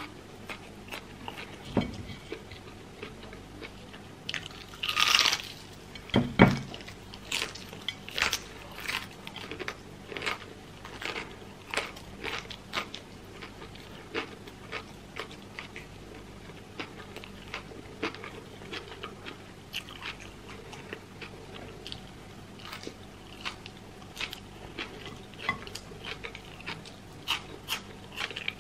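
Close-miked chewing and crunching of fried chicken and fries, with many small sharp crunches of mouth sounds. A louder crunch comes about five seconds in, and a dull thump follows a moment later.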